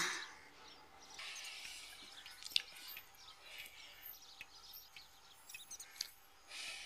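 Quiet background ambience with faint bird chirps scattered throughout and two soft clicks, about two and a half seconds in and near the end.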